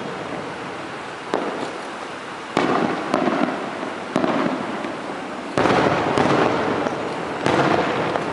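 Aerial fireworks shells bursting one after another: about seven sharp booms at uneven intervals, each trailing off in a long fading rumble.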